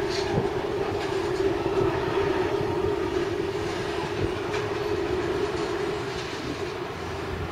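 Loaded coal train on the move: the steady drone of diesel locomotives working under load, with a few sharp clacks of the coal wagons' wheels over the rail joints.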